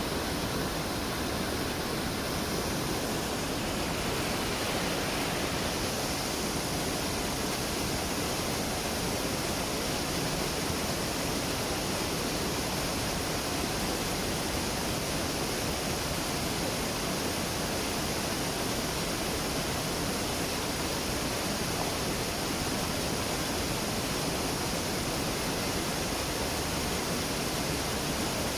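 Waterfall rushing: a steady, even wash of falling water with no change or break.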